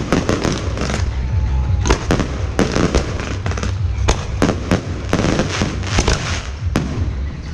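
Fireworks going off in quick, irregular succession: many sharp bangs and crackles over a continuous low rumble.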